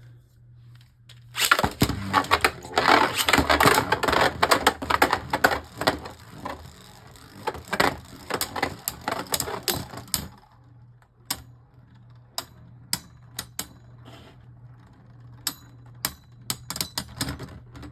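Beyblade Burst spinning tops launched into a plastic stadium about a second and a half in. They then spin and clash in a dense rattle of clicks for about nine seconds, and after that knock together only now and then with single sharp clicks.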